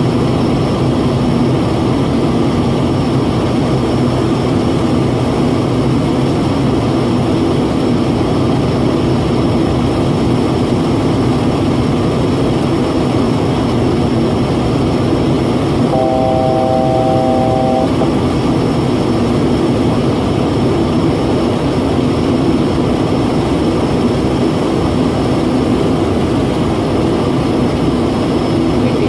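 Loud, steady airliner noise heard inside the cabin during the landing: engine noise and rushing air with no break. About two-thirds of the way through, a steady tone of three pitches sounds for about two seconds.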